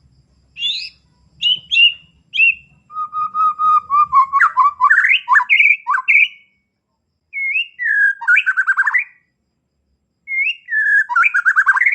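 White-rumped shama (murai batu) singing a varied song of clear whistles, chirps and rapid trills, in phrases of a second or two separated by short pauses, with one longer run of about three seconds. The phrases borrow the calls of small birds.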